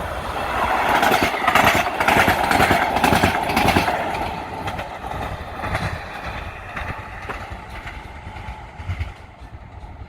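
Kinki Sharyo P3010 light rail train passing, its wheels clacking over the rail joints under a steady whine. It is loudest in the first few seconds, then fades as the train moves away.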